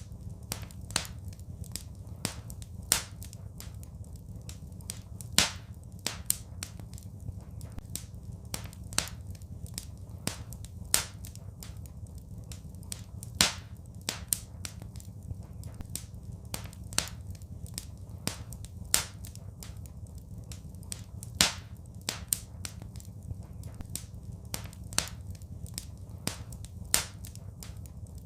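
Wood fire crackling in a fireplace: irregular sharp pops and snaps, several a second, with a louder snap every couple of seconds, over a low steady rumble.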